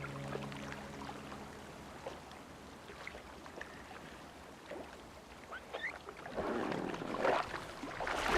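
River water splashing as a man swims, with scattered small splashes at first and heavier splashing over the last two seconds.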